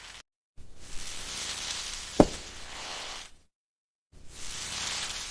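A knife cutting through crisp cake: a crackling, crunching scrape that ends in a sharp tap as the blade meets the plate, about two seconds in. The sound stops dead twice, where short clips are cut together.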